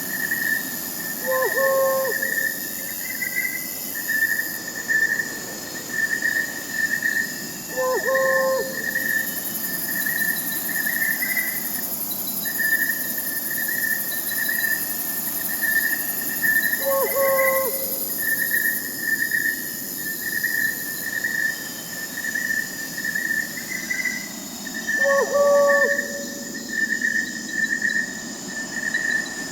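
Crickets chirping steadily in a fast pulsing trill, with an owl's short low hoot repeating about every eight seconds.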